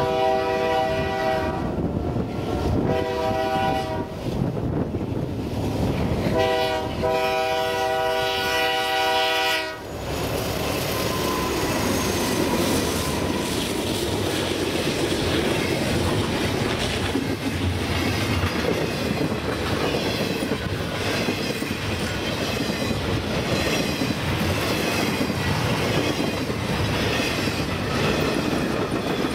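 Multi-tone air horn of a CN freight train's lead GE C44-9W diesel locomotive sounding for a grade crossing: the tail of a long blast, a short blast about three seconds in, and a long blast from about six to nearly ten seconds in. Then the locomotives pass, and the loaded freight cars roll by in a steady rumble with the clickety-clack of wheels over the rail.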